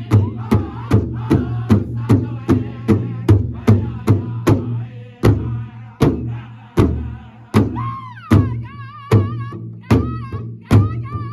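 Northern-style powwow drum song: a group of singers striking a large shared powwow drum in a steady beat, which slows to widely spaced strikes in the middle. Near the end a high, wavering lead voice comes in over the drum.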